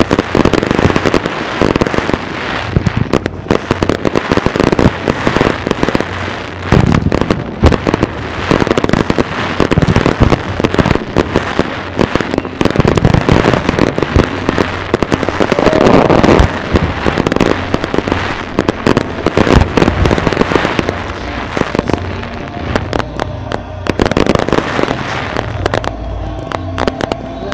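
Fireworks display: a rapid, continuous barrage of aerial shells bursting, with dense crackling. The bursts thin out over the last few seconds.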